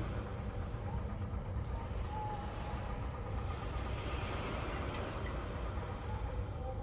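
Steady low rumble of wind on the microphone over sea waves, with no single event standing out.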